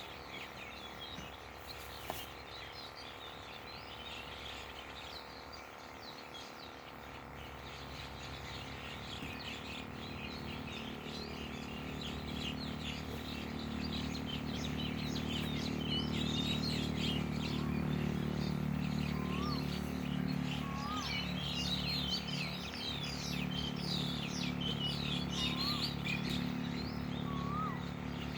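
Many birds chirping in short, rapid calls, busiest in the second half, with a few clear whistled notes near the end. Under them a low steady hum grows louder over the first half and then holds.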